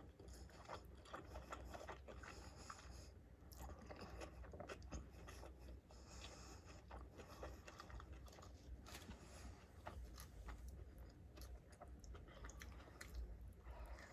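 A person chewing and biting food close to the microphone: faint, irregular clicks of chewing that continue throughout.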